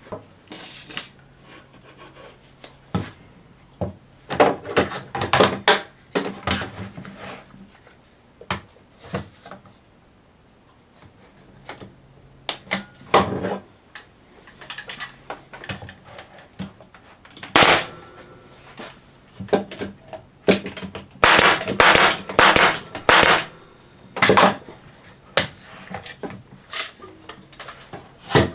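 Cedar fence-picket boards and hand tools handled on a workbench: scattered knocks, clatter and short scraping rubs, with a dense run of them a little past the middle.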